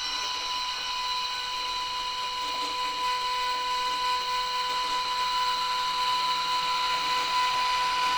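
H0 scale model locomotive running, a steady high-pitched electric whine made of several even tones over a hiss, growing a little louder as it goes.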